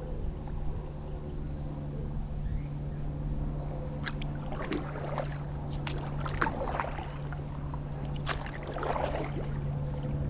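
Stand-up paddleboard paddle dipping and pulling through canal water, with splashes and water trickling off the blade starting about four seconds in, over a steady low hum.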